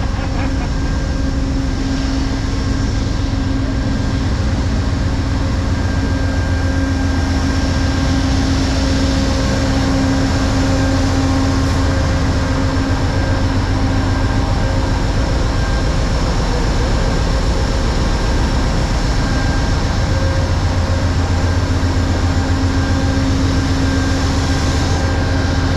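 Idling train engine: a steady drone with a constant low hum.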